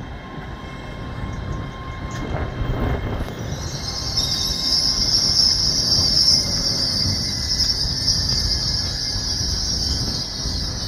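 Hitachi Class 802 bi-mode express train running past, wheels rumbling on the rails. A steady high squeal sets in about three and a half seconds in.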